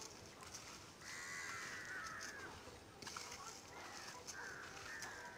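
Birds calling, with two long calls, one about a second in and one about four seconds in. There are a few sharp scraping clicks about three seconds in, as a shovel and hoe dig into a bed of ash and charcoal.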